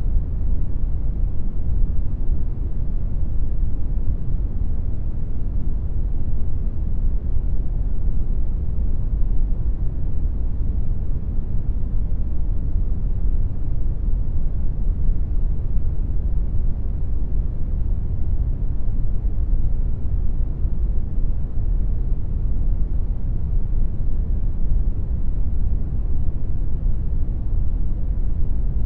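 Brown noise: a steady, unchanging rumbling hiss, strongest in the bass and fading toward the treble, generated in Audacity.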